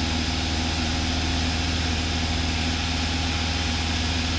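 Cessna 172's piston engine and propeller droning steadily in flight, heard inside the cockpit, an even hum without changes in pitch.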